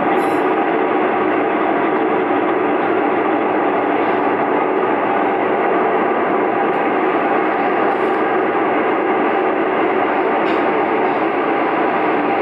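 Steady running noise of a KiHa 47 diesel railcar heard from inside the cabin while under way: rolling wheels on rail and a low engine hum, with a few faint clicks.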